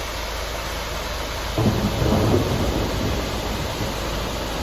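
Flash-flood water rushing in a steady wash of noise, with a deeper low rumble swelling about a second and a half in and easing off a second later.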